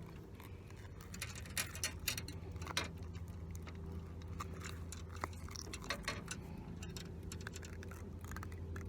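Scattered light clicks and taps at an uneven pace, over a steady low hum.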